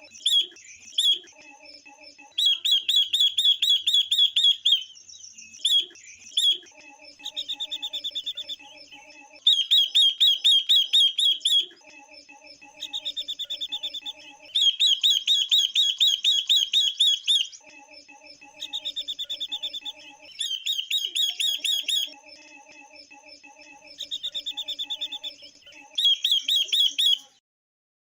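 Female ngũ sắc and quế lâm songbirds calling: phrases of rapid, evenly repeated high chirps, each a couple of seconds long, following one another with short pauses.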